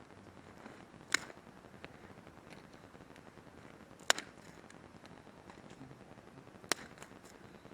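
Campfire crackling: the burning wood gives three sharp pops, about a second in, about four seconds in and near the end, with smaller ticks between.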